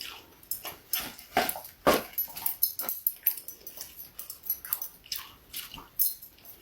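A husky eating, chewing and licking at his food: a run of short, irregular mouth smacks and clicks.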